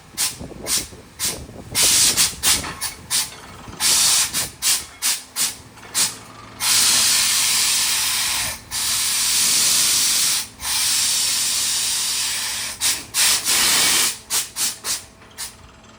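Compressed air from a borewell drilling rig blasting out of the bore in a quick series of short hissing bursts, then three long blasts of about two seconds each, with a steady low engine hum under them. This is the air flushing water up out of the freshly drilled borewell.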